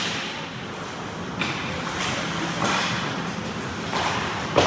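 Ice hockey play on the ice: skate blades scraping and carving in repeated swells, with stick and puck clatter and a sharp thump near the end.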